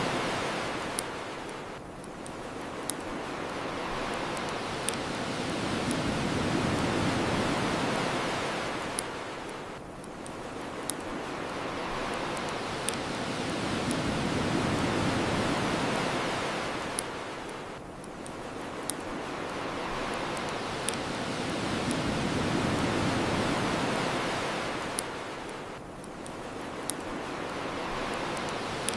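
Ocean waves washing on a shore, swelling and ebbing about every eight seconds, with sharp single pops from a crackling bonfire every couple of seconds.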